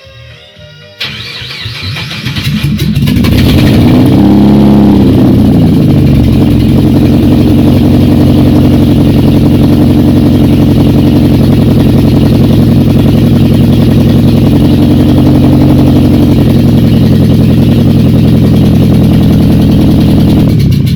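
GAZ Volga 31105 car engine cranked and started about a second in, catching within a couple of seconds, revving briefly, then idling steadily. It is the first start after a repair in which the engine block was replaced.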